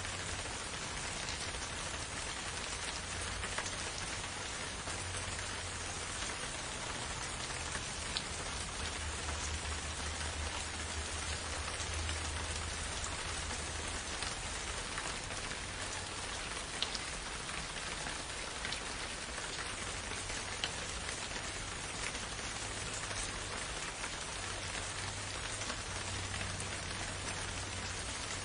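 Steady rain falling in a forest, an even hiss with occasional sharper drops ticking out, over a faint low rumble.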